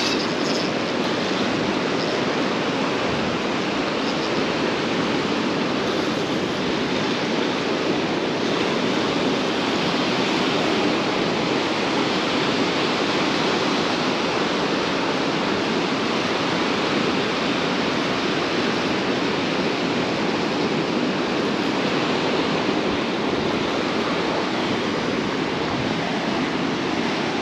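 Steady, unbroken wash of ocean surf on a beach.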